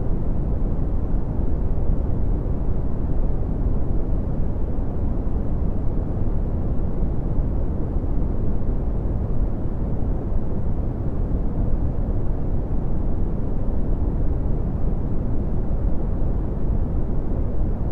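Red (Brownian) noise: a steady, deep rumbling hiss with most of its energy in the low end and very little treble, unchanging throughout.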